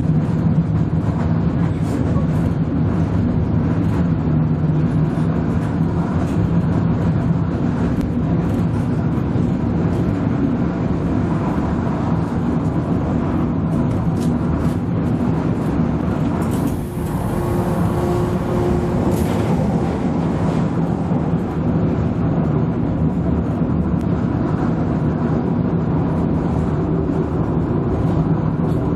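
Cabin noise aboard a DB class 646 (Stadler GTW) diesel multiple unit at running speed: a steady engine hum and the rumble of wheels on the rails. About two-thirds of the way through, a short hiss comes in for a few seconds.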